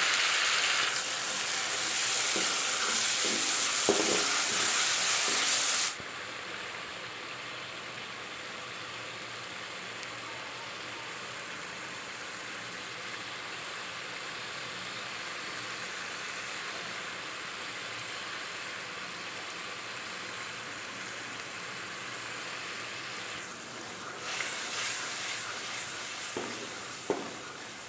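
Chopped tomatoes and onions sizzling in hot oil in an aluminium karahi while a wooden spoon stirs them, with a few knocks of the spoon. The sizzle is loud for the first six seconds, then cuts abruptly to a quieter, steady hiss as the masala simmers. It grows louder again near the end, with spoon knocks.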